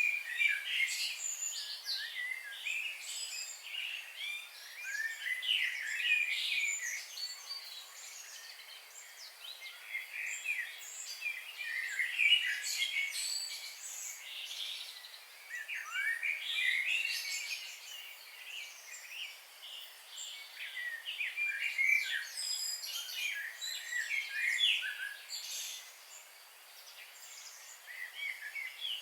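Several songbirds chirping and singing over one another in quick, high, overlapping phrases, coming in bouts with brief lulls between them.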